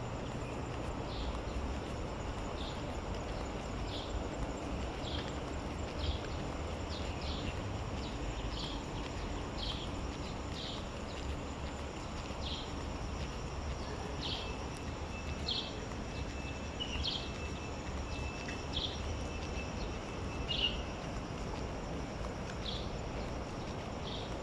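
A bird calling over and over with short high notes, roughly one a second, over a steady low outdoor rumble. A thin steady high tone is held for several seconds in the second half.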